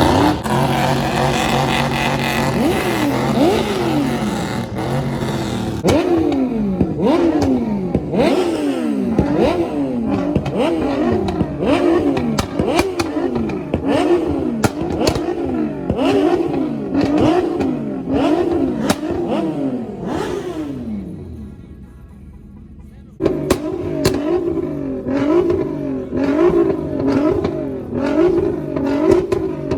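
A car engine being revved over and over, its pitch climbing and dropping about once a second, with sharp pops and clicks. It dies down briefly past the middle, then comes back suddenly at full level.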